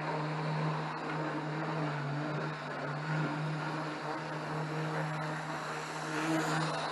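OO gauge Class 50 model diesel locomotive running on the layout: a steady electric motor hum with wheels rattling on the track, and an occasional faint click.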